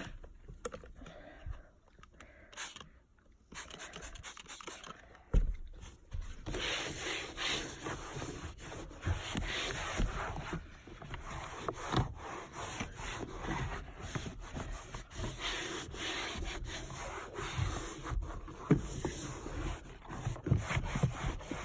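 A cleaning rag scrubbed back and forth over a car's interior surfaces, with repeated rubbing strokes starting about six seconds in, after a few knocks and handling sounds.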